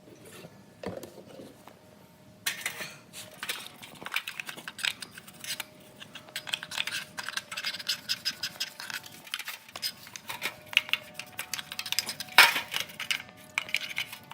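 Rapid clinking and scraping of small metal parts being worked by hand, starting about two and a half seconds in, with one louder clack near the end.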